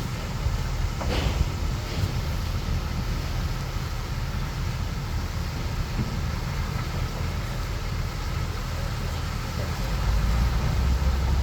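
Bulldozer's diesel engine running steadily as a low rumble, growing louder near the end.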